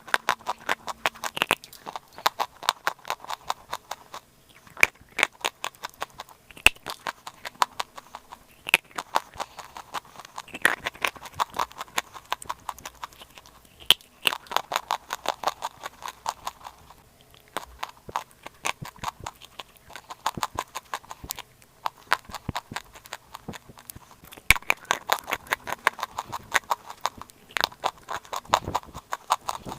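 Dry chalk clay being crunched and chewed close to the microphone: rapid crisp crackles in runs of a few seconds, with short pauses between bites.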